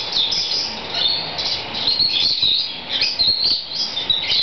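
Caged birds chirping and twittering, a steady run of short high calls.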